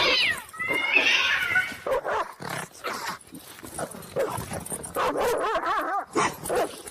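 A dog vocalizing in a string of short calls that rise and fall in pitch, higher at first and lower, quick wavering calls after about five seconds.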